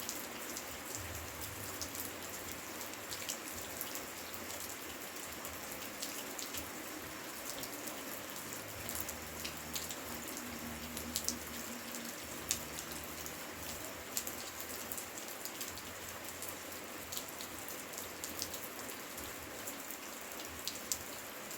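Steady rainfall, with many separate drop hits standing out over an even hiss.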